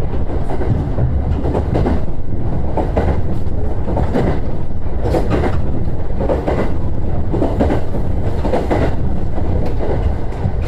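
JR East E129 series electric train running on the rails, heard from inside the car: a steady low rumble with wheels clicking over rail joints.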